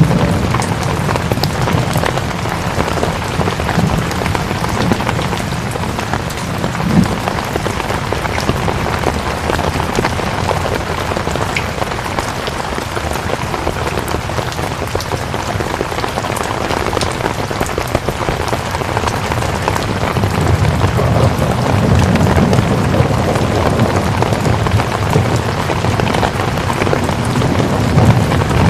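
Steady rain falling on a surface, dense patter with scattered sharper drops and a low rumble that swells about two-thirds of the way through.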